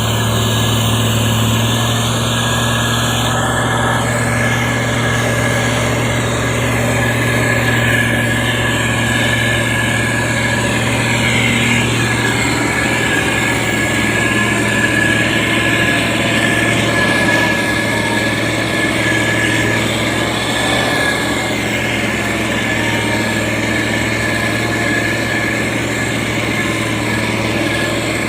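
Heavy construction machine's engine running steadily, a continuous low hum with a thin steady whine above it.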